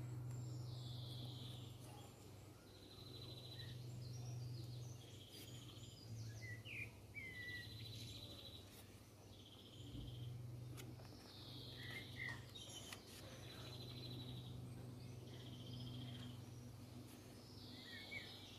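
Songbirds singing faintly: short trilled phrases repeated every couple of seconds, with a few brighter chirps between them, over a steady low hum.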